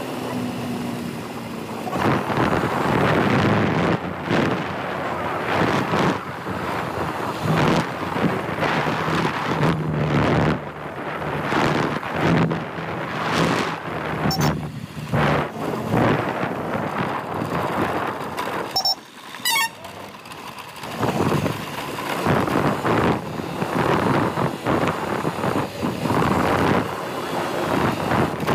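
Motorcycle running on the move, with heavy wind buffeting the microphone in uneven gusts. The sound drops briefly about two-thirds through, and a few faint high chirps come through near the middle.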